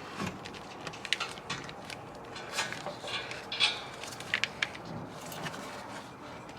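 Irregular light clicks, clinks and knocks of hard objects being handled, the loudest about three and a half seconds in.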